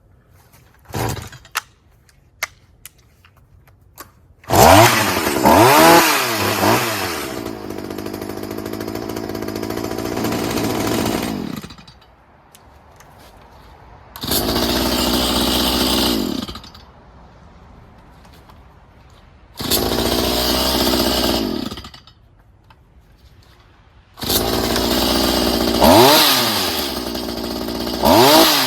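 Stihl HS45 hedge trimmer's two-stroke engine run up to full throttle in four bursts of a few seconds each, the pitch rising and falling as it revs, and dropping back low in between. It is running well after a carburettor rebuild and new fuel line, grommets and air filter. A few light clicks come before the first burst.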